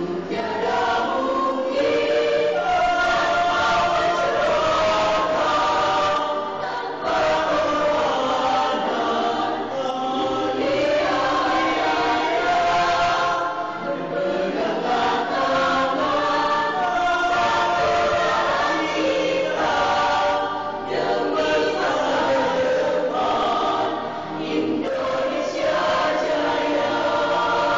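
Mixed-voice choir of women and men singing together, sustained phrases broken by short pauses about every seven seconds.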